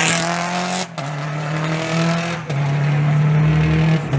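Rally car engine accelerating hard through the gears. The pitch climbs, then drops at quick upshifts about one second and two and a half seconds in.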